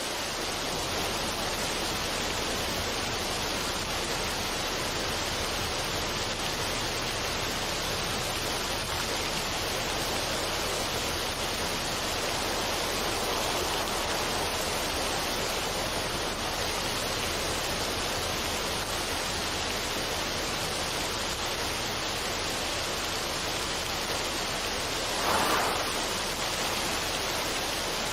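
Steady, even rushing noise of a relaxation ambience track, with a brief louder swell about 25 seconds in.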